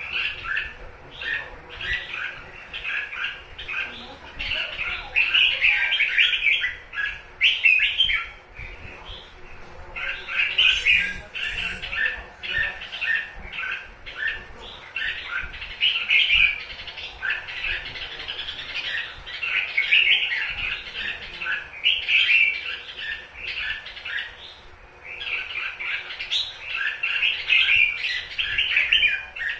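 Red-whiskered bulbuls calling and singing in rapid, chattering runs of short notes, the 'túc túc' call that bird keepers play to stir caged bulbuls into singing and fighting, with two brief lulls.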